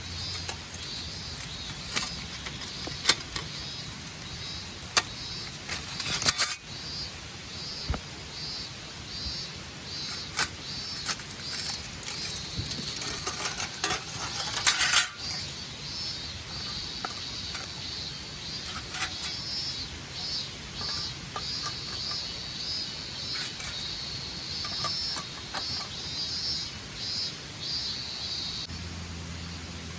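Clinks, clicks and rustling of camp gear being handled, busiest and loudest about halfway through. Under it runs a steady high insect chirping of about two pulses a second.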